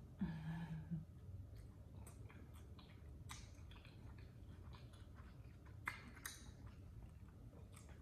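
Soft, close-up chewing of a bite of chili cheese dog: a brief hummed "mm" as the bite is taken, then scattered wet mouth clicks and smacks.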